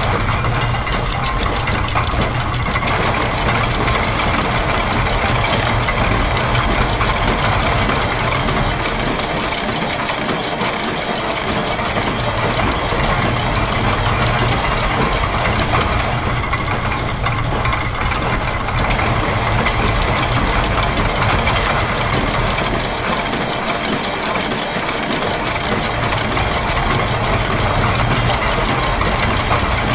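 Dense layered mix of looped factory machine sounds, a steady mechanical din with gear and ratchet-like clatter. Its high-pitched layer drops out twice for a few seconds, near the start and again a little past halfway.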